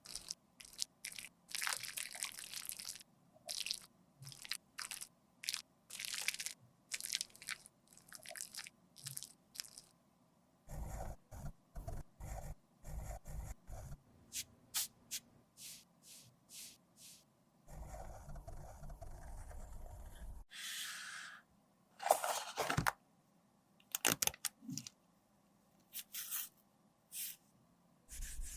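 Dry makeup being crushed and scraped with a tool: a rapid run of short crunches for the first third, then slower, separated bursts of crunching and scraping.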